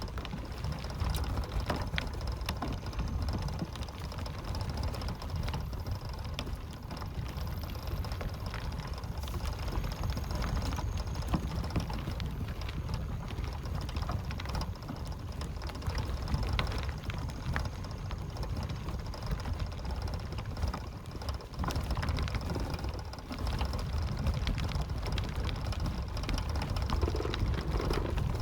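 Steady low rumble with a faint high whine held throughout and scattered sharp clicks.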